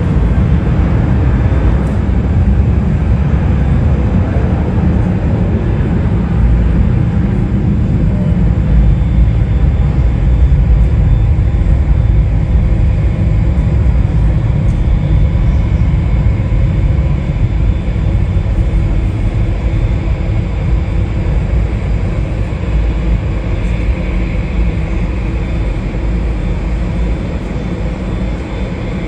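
Jet airliner engines, a loud steady rumble with faint whining tones above it, easing off slightly near the end.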